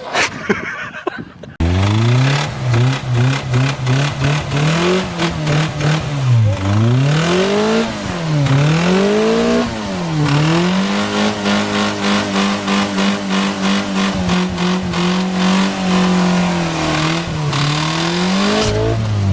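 A Honda car engine revved hard: it holds high revs, drops and climbs back up several times, then holds a steady high pitch for several seconds before falling away near the end. Another sound is cut off suddenly in the first second and a half.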